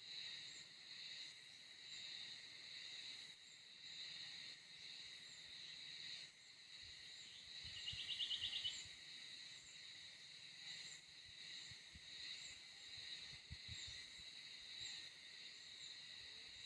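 Faint, steady high-pitched chorus of crickets and other insects, gently pulsing. About eight seconds in, a short rapid trill of clicks stands out briefly, and a few faint low thumps come in the second half.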